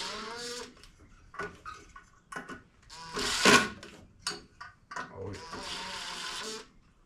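Small handheld power tool motor running twice, each time for about a second and a half: once at the start and again near the end. Knocks and a louder clatter of parts and tools come in between.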